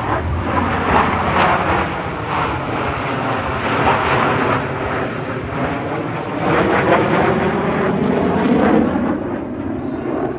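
Jet display aircraft flying past low, a loud continuous engine roar that swells again about two-thirds of the way through, with a sweeping pitch as they pass.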